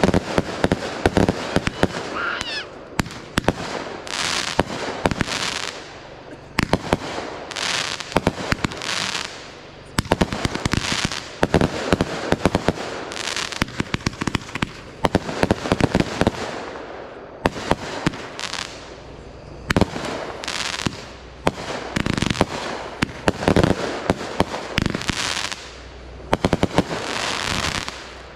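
Fireworks going off in quick succession all the way through: many sharp bangs with bursts of crackling and hissing between them, every second or two.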